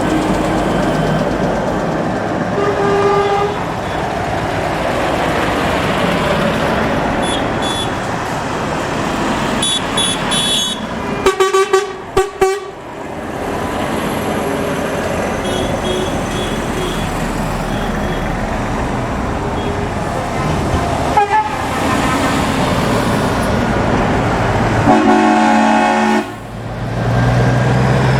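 Heavy lorries driving past in a convoy with their diesel engines running, sounding air horns: a rapid string of short toots about eleven seconds in and a longer blast near the end.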